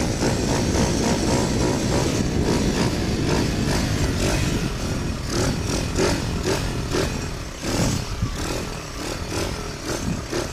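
Pit bike engine running under throttle, revving up and down as the rider works the throttle, with repeated short rises and falls in pitch in the second half.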